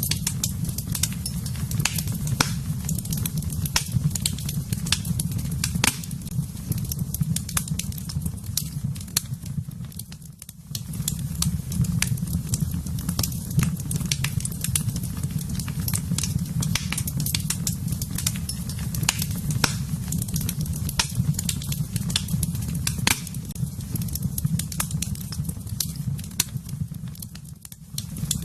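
Wood fire burning in a fireplace: a steady low rumble of flames under frequent sharp crackles and pops. The sound dips briefly about ten seconds in and again near the end.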